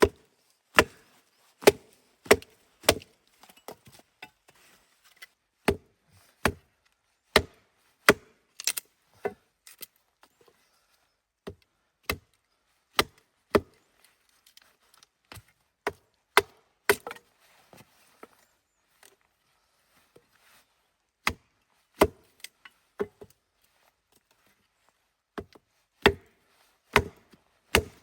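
Wood being chopped: a run of sharp single strikes, roughly one to two a second, with a couple of brief pauses.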